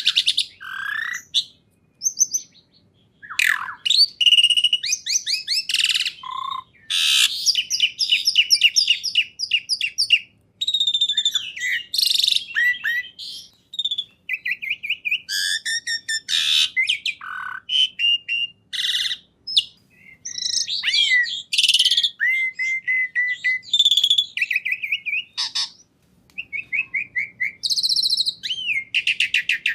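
Songbird singing a long, varied song of fast trills, repeated rising and falling whistled notes and sharp chirps, in phrases broken by short pauses.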